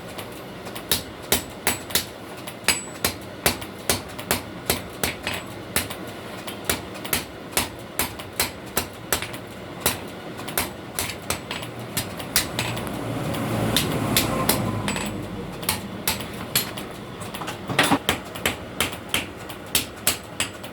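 Blacksmith's hammer striking steel on an anvil in an even rhythm, about two to three blows a second, while forging a sickle blade. About two-thirds of the way through, the blows thin out under a steady rushing noise that swells and fades, then the hammering picks up again.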